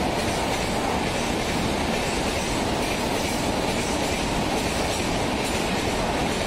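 Mumbai suburban EMU local train running along the platform: a steady noise of its wheels on the rails.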